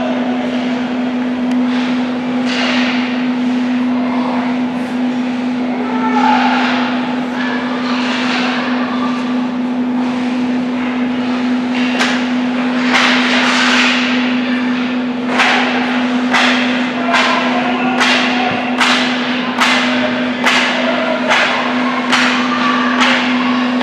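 Ice hockey game sounds: skates scraping and carving the ice over a steady low hum. About halfway through, a run of sharp, evenly spaced knocks starts, roughly one every two-thirds of a second, and keeps going to the end.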